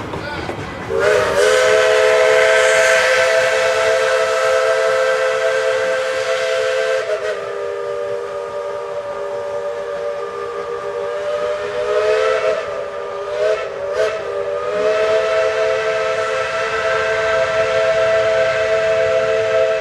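Steam whistle on Tweetsie Railroad's No. 12 steam locomotive, several tones sounding together as a chord, with steam hissing. It opens loud about a second in and is held for many seconds, softens in the middle, wavers and breaks as it is worked up and down, then sounds loud again.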